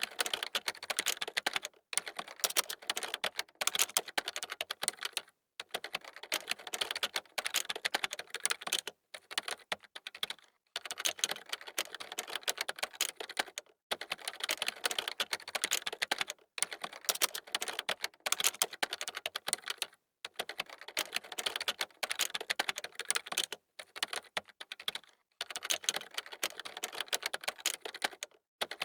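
Fast typing on a computer keyboard: rapid key clicks in runs of a few seconds, each broken off by a brief pause.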